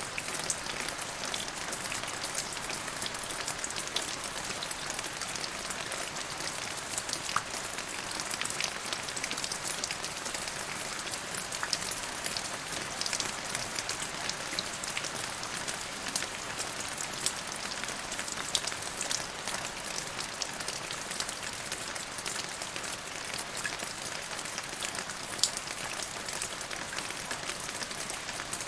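Steady rain falling, a constant hiss with many small drop ticks and patters scattered through it.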